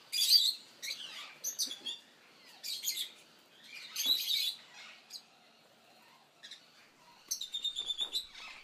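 Birds chirping in short high bursts, separated by brief pauses, with a quick run of rapid chirps near the end.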